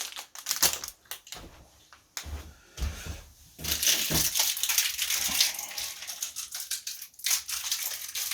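Rustling and crinkling with many small clicks and knocks, as someone rummages for screws; it gets denser about halfway through.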